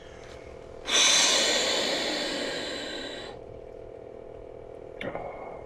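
A man in an ice bath breathing out long and hard into the microphone, one forceful exhale of about two and a half seconds that starts suddenly and fades away: breathing through the cold. A short click follows near the end.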